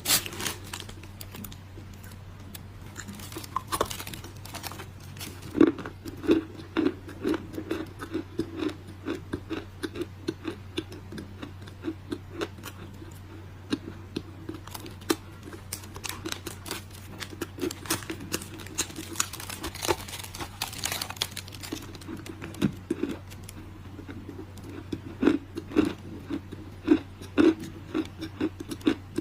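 Dry edible clay being bitten and chewed close to the microphone: a steady run of sharp, brittle crunches, thickest about a quarter of the way in and again near the end, over a low steady hum.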